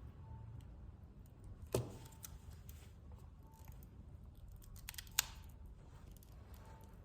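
Faint clicks and taps of small repair tools working on an opened smartphone, with two sharper clicks, one about two seconds in and one about five seconds in, over a low steady hum.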